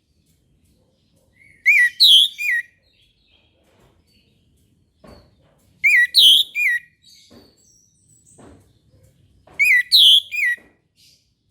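Orange-headed thrush (anis merah) singing: the same short phrase of three curved whistled notes, repeated three times about four seconds apart, with faint softer notes in between.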